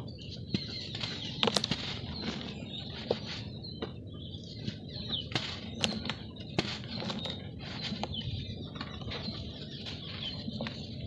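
Lumps of dry red dirt being crushed and crumbled by hand, with a steady gritty crumbling and scattered sharp crackles and snaps. Birds chirp in the background.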